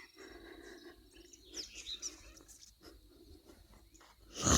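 A few faint bird chirps over low background hum, with one short loud thump near the end.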